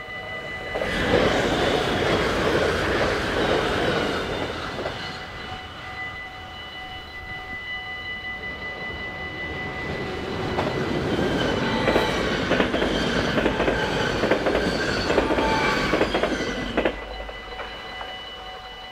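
Dutch level-crossing warning bell rings steadily while an NS double-deck electric train passes at speed. The rushing noise of the train rises about a second in, eases off, then swells again with rapid wheel clacks over the rail joints. It cuts off suddenly near the end, leaving the bell still ringing.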